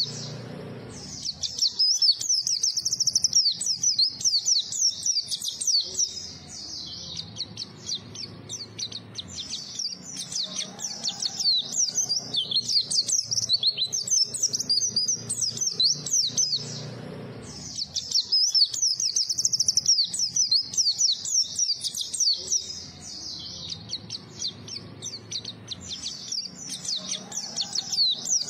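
White-eye (pleci) in full song: a fast, high-pitched, rambling twitter of quick notes, with brief pauses about a second in and again about halfway through.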